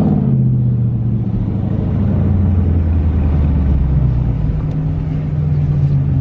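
Car engine and exhaust droning steadily at a low pitch while driving, the pitch rising slightly about four seconds in.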